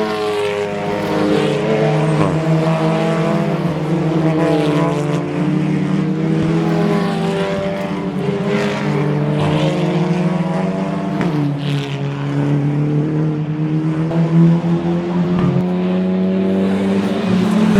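Touring race car engines at racing speed, several cars going past one after another, their engine notes rising and falling in pitch as they pass.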